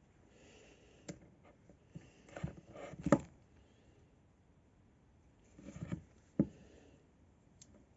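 Scattered small clicks and knocks of hand-work with a spreading tool, fitting a rubber cup seal onto a brake master cylinder piston, with two sharper knocks about three and six and a half seconds in.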